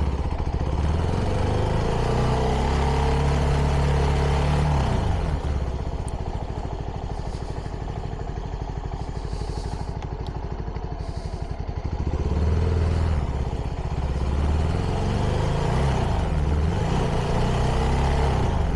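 CFMoto 300NK's single-cylinder engine through its stock exhaust: it runs on the throttle, drops in pitch as the throttle closes about five seconds in, and stays at low revs for several seconds. Near the end it revs up again.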